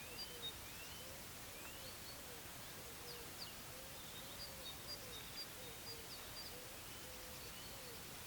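Small forest birds calling: thin high chirps and short rising whistles, scattered throughout. Under them a low wavering note repeats every half second or so over a steady faint hiss.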